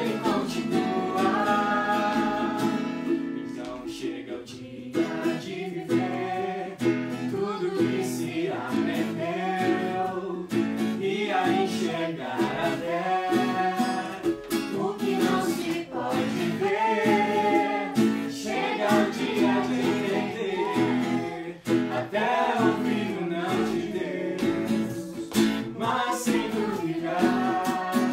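Worship song performed live: voices singing over strummed acoustic guitar.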